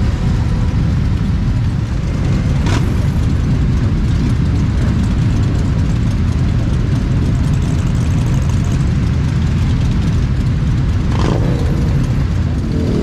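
Motorcycle engines running in a steady, continuous low rumble, with two brief whooshes, about three seconds in and near the end.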